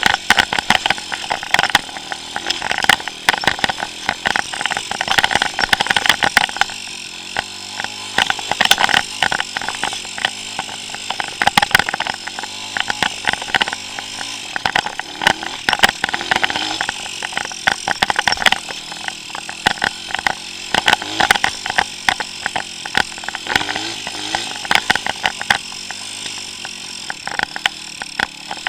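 A 140cc pit bike's four-stroke single-cylinder engine running hard, its revs rising and falling, with a constant clatter of sharp knocks and rattles through it.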